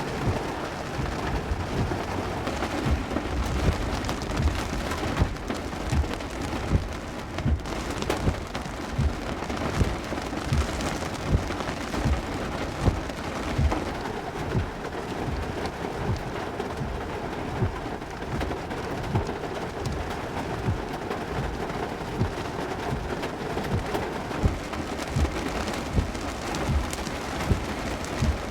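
Heavy rain pouring down in a cloudburst, a dense steady hiss, with frequent short low thumps running through it.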